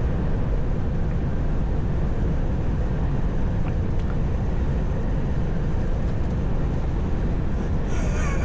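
Steady low rumble of a truck's engine and road noise heard inside the cab while driving. Near the end a wavering high-pitched squeal starts.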